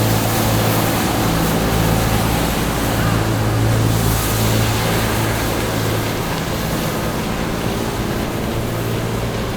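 An engine running steadily close by, a constant low hum over a steady rushing noise.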